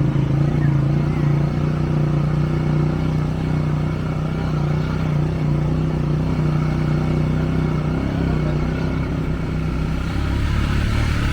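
A motor vehicle's engine running steadily, its hum shifting lower about ten seconds in.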